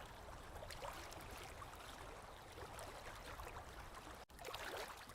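Small waves lapping gently at a lake shore, faint, with many little splashes and trickles. The sound drops out for a split second about four seconds in.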